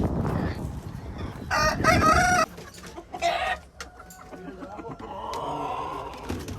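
Rooster crowing loudly about a second and a half in, followed by a shorter call, then fainter chicken calls near the end.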